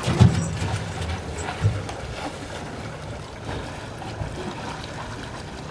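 Wind and water noise aboard a sailing boat: a steady wash with low thumps of wind on the microphone, a stronger one just after the start and another at about a second and a half.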